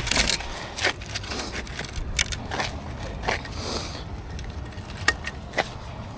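Downhill mountain bike rolling over rough ground, with a low rumble of tyres and a string of irregular knocks and rattles from the bike.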